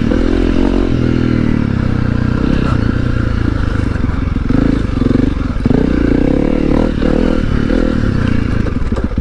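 Honda CRF300L single-cylinder four-stroke dirt bike engine running under way off-road, its revs rising and falling with the throttle.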